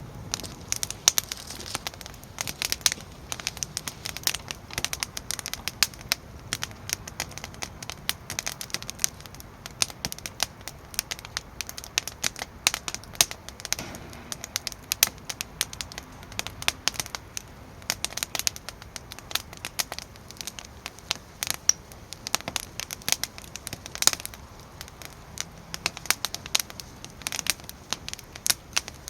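Firewood burning in a fire pit, crackling steadily with many irregular sharp snaps.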